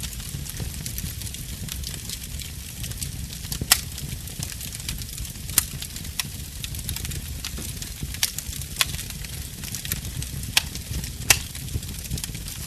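Wood fire burning in a fireplace: a steady crackle and hiss over a low rumble, with sharp pops about six times.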